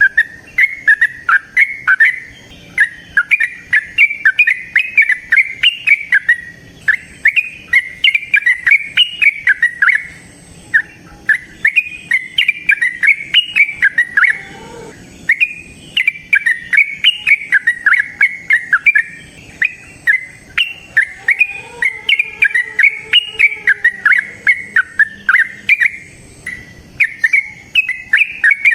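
Yellow-vented bulbul singing its long, rapid, bubbling song, note after note with only brief breaks every few seconds. A fainter, lower call sounds underneath about three-quarters of the way through.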